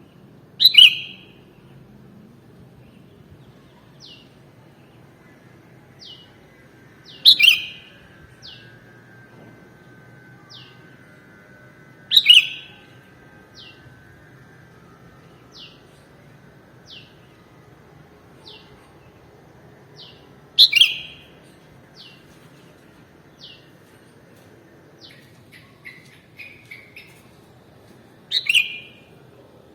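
Sooty-headed bulbul (kutilang) calling: five loud short call notes spaced several seconds apart, with faint quick downward chips about once a second in between.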